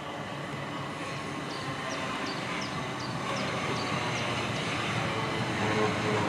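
Southeastern Electrostar electric train approaching, its rumble and rail noise growing steadily louder. A run of short, high chirps, about three a second, sounds through the middle.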